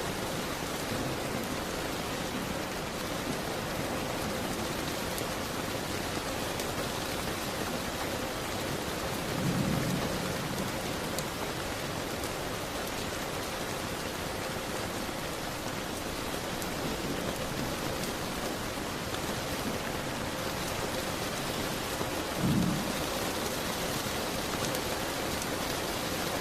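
Steady rain on a window with a wood fire crackling in a fireplace, faint small clicks over the hiss of the rain. Two short, dull low thumps stand out, about ten seconds in and again near the end.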